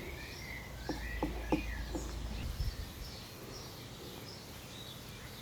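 Birds chirping and calling in the background, with a few soft clicks about a second in.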